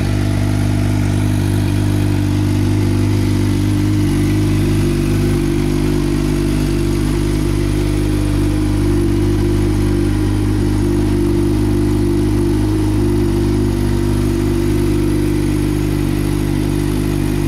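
2011 Suzuki GSX-R 600's inline-four engine idling steadily, already warmed up.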